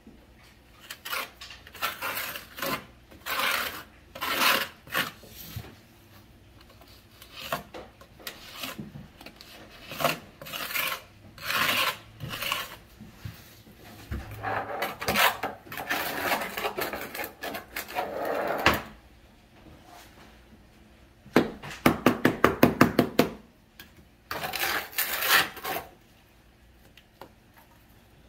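Trowel scraping and spreading quick-setting thinset mortar in irregular strokes, with a quick run of about a dozen sharp taps a little past three-quarters of the way through.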